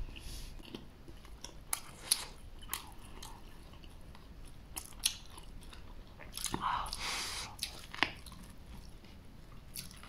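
Close-up biting and chewing of a soft jianbing pancake rolled around raw scallions and bean paste, with scattered sharp crunches.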